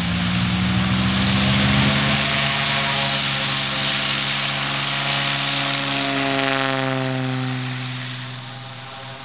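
Cessna T206's turbocharged six-cylinder engine and propeller at full take-off power, steady at first, then dropping in pitch as it passes and fading as it climbs away.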